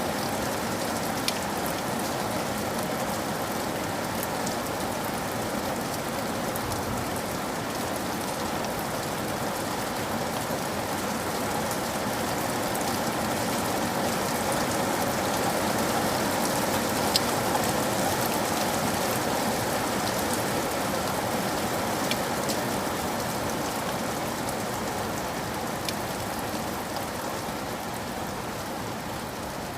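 Steady rain falling, a dense even hiss that swells a little midway and eases toward the end, with a few sharp single ticks standing out.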